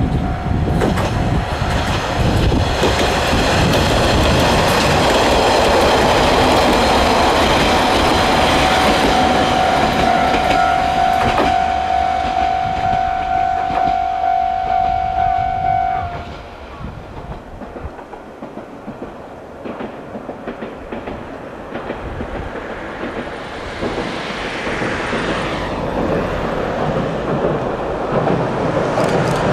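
Three-car Isumi 200' series diesel railcar train running, wheels clacking over rail joints, with a steady high tone held for the first sixteen seconds or so. The sound drops off sharply about sixteen seconds in, then slowly builds again near the end.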